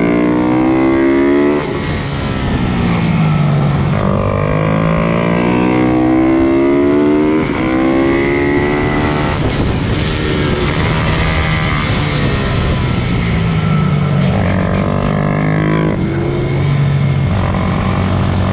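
Several small pit bike engines racing, revving up and dropping sharply again and again as they shift gears and come off the throttle.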